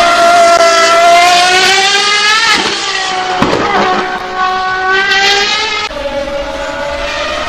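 High-revving race car engine accelerating hard through the gears. Its high note climbs steadily and drops sharply on an upshift about two and a half seconds in and again near the end, then climbs once more.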